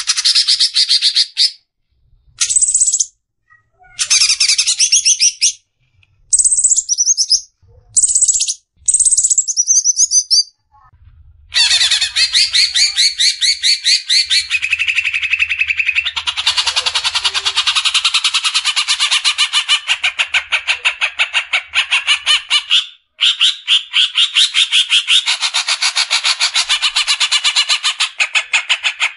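Cucak ijo (green leafbird) calling. First come a few short separate phrases. Then, about a third of the way in, it breaks into a long, rapid chatter of fast-repeated harsh notes, the 'besetan' burst, which is broken once briefly near the end.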